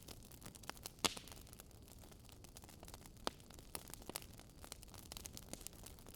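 Wood fire crackling: a faint hiss with scattered irregular pops and snaps, the sharpest about a second in and another just after three seconds.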